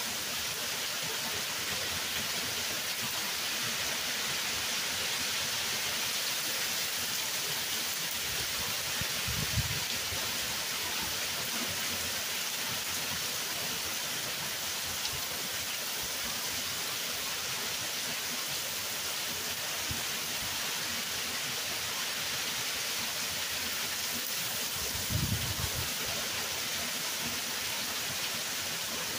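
Hard rain pouring steadily onto pavement, grass and shrubs, a dense even hiss. Two brief low bumps, about a third of the way in and near the end.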